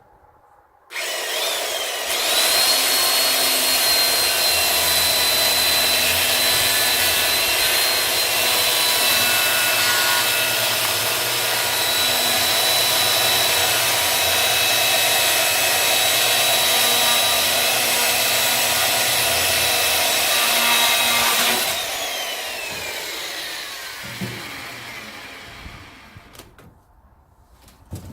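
Electric saw starting about a second in, running up to a steady high whine and cutting through firewood for about twenty seconds, then switched off and winding down with a falling whine.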